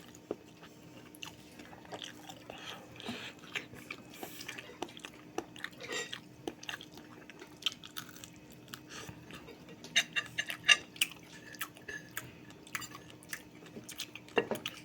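A person chewing crunchy fried dried fish (bulad) close to the microphone: a run of small crisp crunches and mouth clicks, thickest about ten seconds in, over a faint steady hum.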